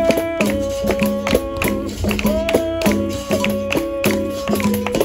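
Live capoeira roda music: berimbau and pandeiro playing a steady rhythm of sharp strikes, under long held notes that slide up into pitch about two seconds in.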